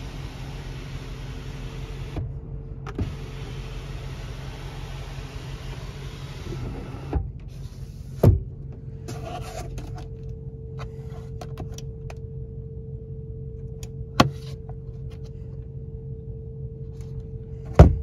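Steady low hum of the idling Mercedes-Benz G63 AMG's twin-turbo V8, heard from inside the cabin, with a hiss over it that stops about seven seconds in. A few sharp clicks come at intervals, the loudest near the end.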